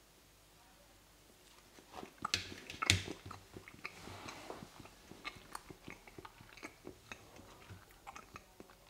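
Close mouth sounds of a man biting into and chewing a small sponge cake bite. Quiet for the first couple of seconds, then a few louder bites and a run of soft, steady chewing.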